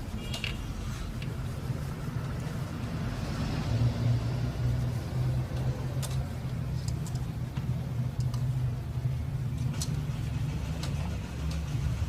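Steady low rumble like a vehicle, with a few sharp clicks or taps scattered a few seconds apart.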